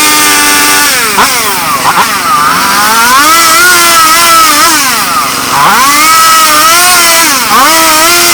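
Two-stroke chainsaw running at high revs, its pitch dropping and recovering several times as the chain goes into and out of a pine log.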